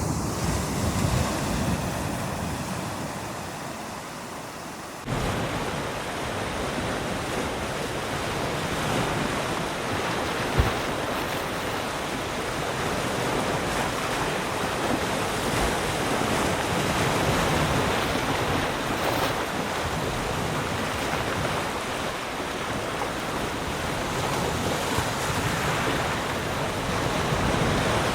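Ocean surf washing onto a shore, a steady rush of breaking waves. It jumps louder and fuller about five seconds in, and there is one brief sharp tick near the middle.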